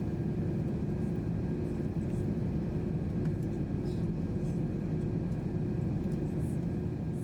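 Steady drone of engine and airflow noise inside the cabin of an Airbus A321 in flight, with a faint constant hum.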